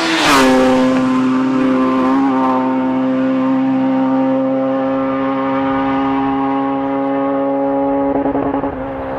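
Rally car engine at high revs passing close by, its pitch dropping as it goes past. It then holds a steady, high-revving note as it drives on up the stage.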